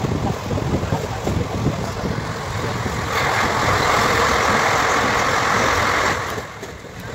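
Passenger train running at speed, heard from an open coach door: the rumble of wheels on the rails. About three seconds in, the train enters a tunnel and the noise becomes much louder and fuller, then drops off suddenly about six seconds in as the train leaves the tunnel.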